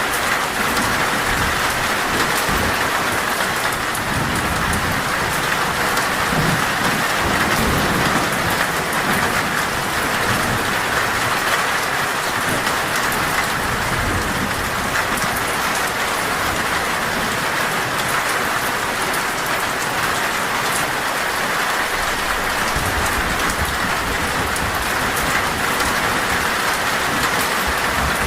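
Heavy, steady rain drumming on a metal roof, with low thunder rumbling twice, a few seconds in and again near the end.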